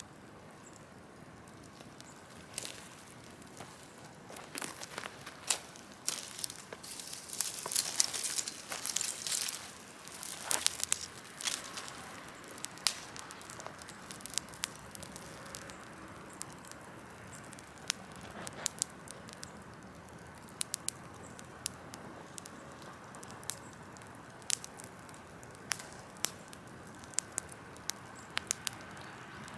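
Large open-air bonfire of wood and branches crackling, with sharp pops scattered throughout and a thicker run of crackling about a quarter to a third of the way in.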